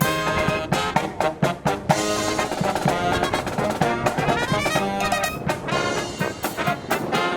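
Marching brass band playing a Disney medley live: trumpets and trombones in short punched chords over drums. Strong wind buffets the microphone throughout, a low rumble under the music.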